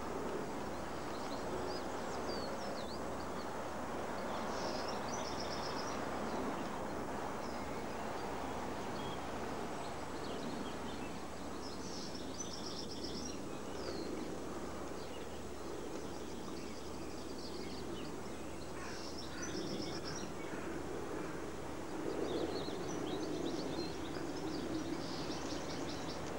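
Birds singing now and then in short high trills, heard four or five times over a steady background of outdoor noise.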